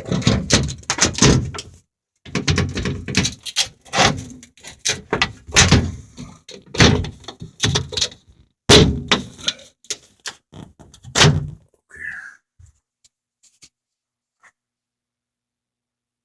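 Sheet-metal furnace access panel being handled and fitted back on: a run of irregular knocks, thumps and scraping that stops about twelve seconds in.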